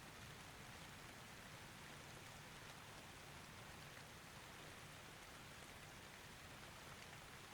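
Faint, steady rain, with no thunder.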